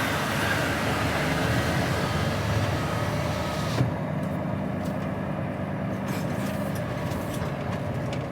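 HGV truck's diesel engine running steadily under way, heard from inside the cab. A high hiss over it cuts off suddenly with a click about four seconds in.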